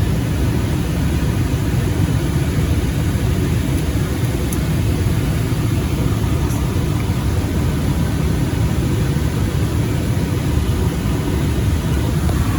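Residential gas furnace running in heat mode: burners firing and the blower moving air, a steady low rumble with no change. The supply air is still heating up toward the 145–150° point where a faulty chamber limit switch has been shutting it down.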